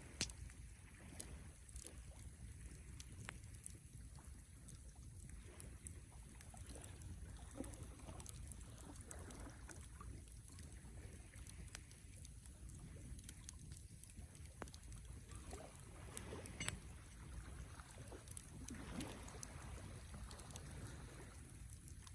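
Wood campfire burning faintly, with scattered sharp crackles and pops over a low, steady rumble.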